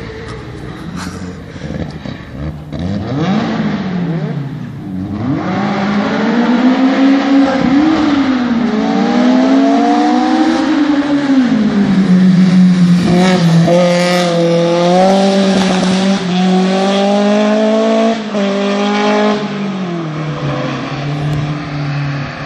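Ford Duratec 2.0 16-valve four-cylinder race engine in a VW Beetle revving hard under acceleration. The pitch rises and drops several times as it goes through the gears, then holds at high revs with small wavers for the last several seconds.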